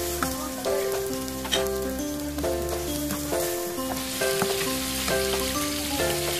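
Instrumental background music, a melody of held notes over a bass line, with bagoong (shrimp paste) sizzling in oil in a frying pan as it is stir-fried with a spatula.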